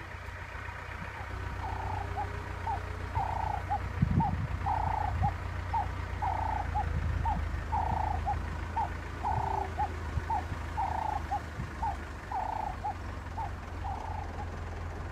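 A bird calling a repeated two-note phrase in the bush, a longer note followed by a short one, about every second and a half, over a steady low rumble.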